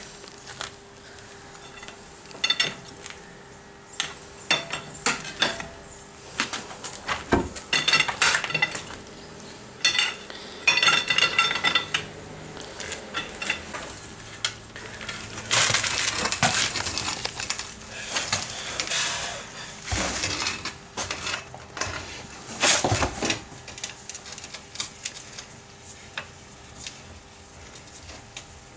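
Metal hand tools and wheel nuts clinking, rattling and scraping while a car's front wheel is taken off, with a few heavier knocks.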